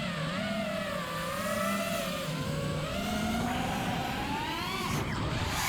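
FPV quadcopter's motors whining in flight, the pitch dipping and rising with the throttle and climbing sharply near the end.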